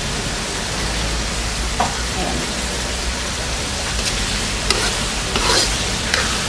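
Grated santol simmering in coconut milk that has cooked down to its oil, sizzling steadily in a pan. A metal spatula stirs and scrapes against the pan a few times, mostly in the second half.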